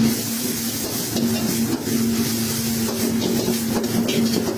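Chicken pieces sizzling as they fry in hot oil with egg, over a steady low hum.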